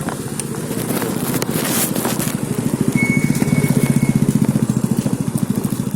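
A small engine running with a fast, even pulse, getting louder about three seconds in, with a brief hiss near two seconds in.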